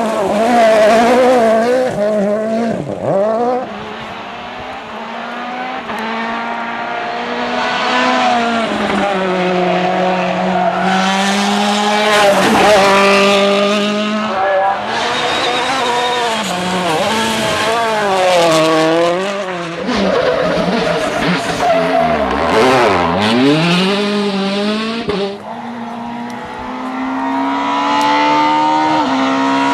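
Rally cars at full stage pace, engines revving hard and climbing through the gears. The pitch drops sharply several times as they brake for corners, then rises again as they accelerate away.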